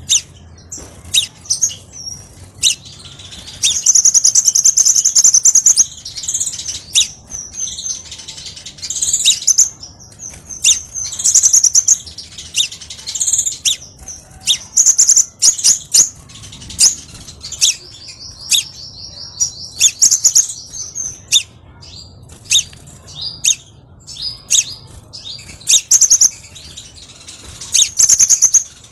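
Crimson sunbird song: rapid, high-pitched chirps and twitters broken by several long, fast trills, the longest near the start and again about two-thirds of the way through.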